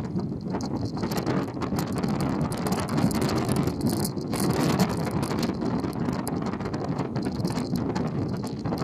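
Car ferry under way: a steady low rumble and rushing noise with wind crackling and buffeting on the microphone.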